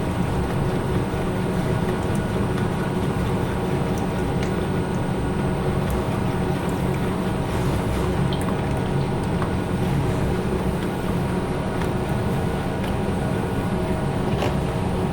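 Steady, even air rush and hum of an automotive paint spray booth during spraying of the pearl coat, with no change in level.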